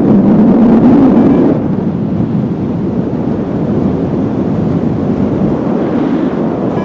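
Strong wind buffeting the microphone, a loud, rumbling rush that is strongest in the first second and a half and then steadies somewhat.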